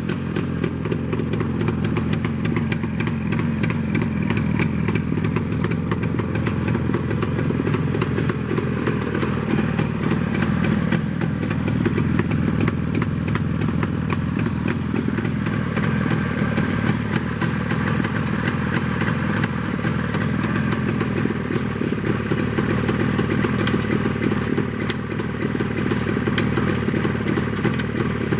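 An engine running steadily, its rapid firing pulses even throughout, with no revving.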